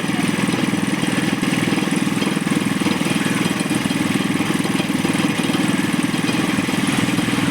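Motorized sugarcane juice press running steadily with a low, rapid pulsing drone, really loud.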